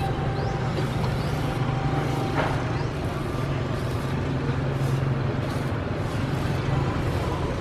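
Road traffic: vehicle engines running steadily, with a continuous low hum.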